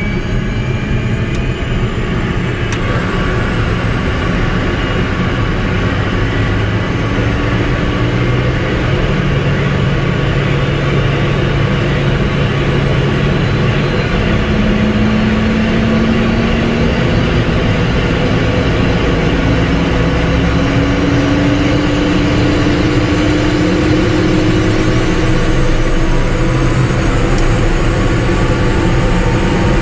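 Tour helicopter's turbine engine and rotor running, a loud, steady noise with a faint whine that slowly rises in pitch.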